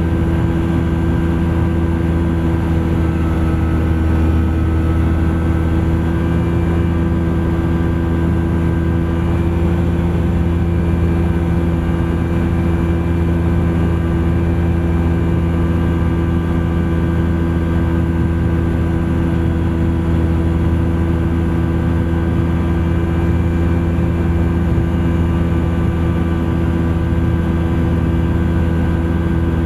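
Thruster ultralight aircraft's engine and propeller running steadily in flight, a constant drone whose pitch rises slightly about eight seconds in.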